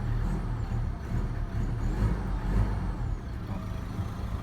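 Ford Ranger T6 2.2-litre four-cylinder turbodiesel revved in blips on its first cold start of the morning, heard from inside the cabin, then dropping back toward idle a little after three seconds in. This is a listen for the cold-start rattle, which the owner no longer hears after an ECU remap.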